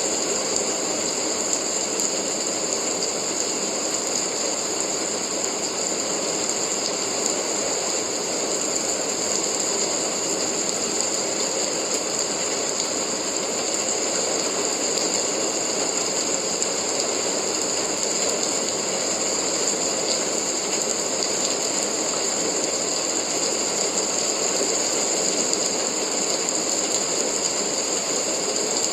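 Steady, unbroken rain noise with a bright, high hiss over a lower patter, at an even level throughout.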